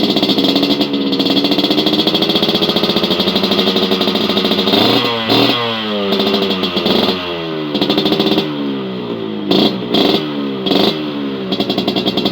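Yamaha RX-King single-cylinder two-stroke motorcycle engine running through a PPM shrimp-style aftermarket exhaust. It holds a steady speed at first, then is blipped several times in the second half, the pitch falling away after each blip.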